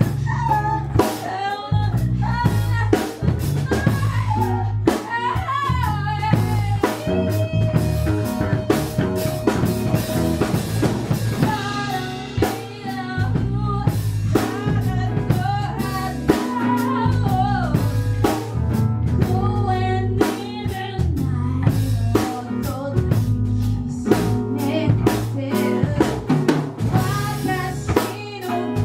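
Live band music with a drum kit keeping a steady beat and a voice singing over it, with one long held note midway through.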